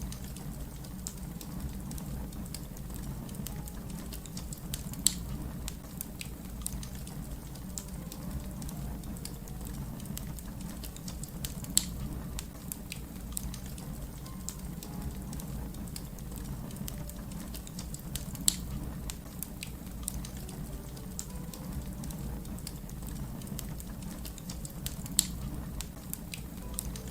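Fire crackling: a steady low rumble under many small crackles, with four sharper pops spaced about every six to seven seconds.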